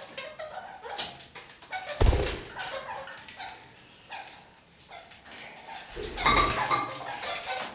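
Red-crowned kakariki chattering with many short calls. Two louder noisy bursts with a low thump come about two and six seconds in.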